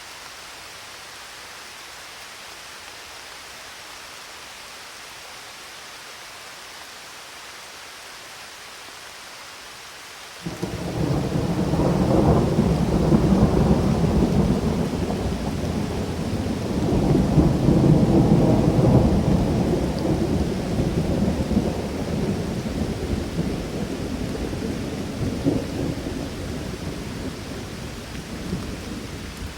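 Rain falling steadily. About ten seconds in, thunder breaks suddenly and rolls in a long low rumble that swells twice and then slowly fades under the rain.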